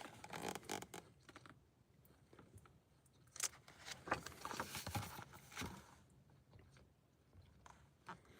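Faint rustling and scraping of book pages being handled, in two short stretches with near quiet between them.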